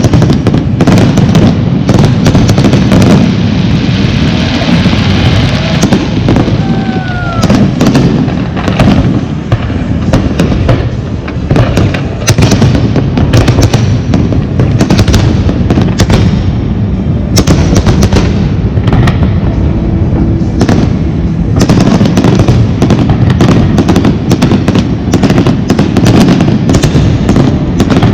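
Fireworks display: a dense, near-continuous barrage of loud shell bursts and crackling, with a brief whistle about six seconds in.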